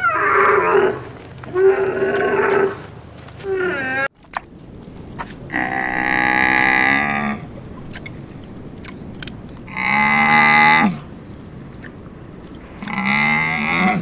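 Dromedary camels calling: a run of short, bending calls, then after an abrupt cut about four seconds in, three long low calls about a second or more each, spaced a few seconds apart.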